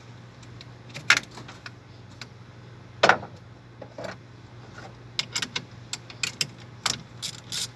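A series of sharp clicks and knocks over a steady low hum: two louder knocks in the first half, then a quick run of lighter clicks in the second half.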